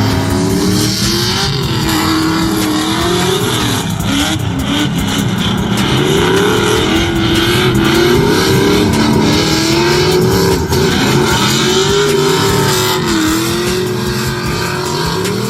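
Car engine revving hard, its pitch rising and falling over and over as the throttle is worked on and off.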